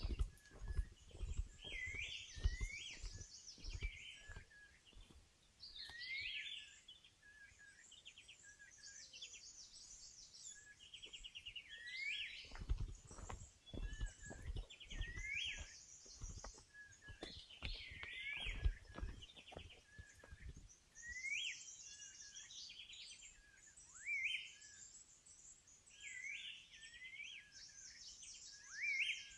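A songbird singing a short phrase over and over, about every three seconds: hooked, rising notes followed by a higher trill. Low thumps and rustles come under it in the first few seconds and again in the middle stretch.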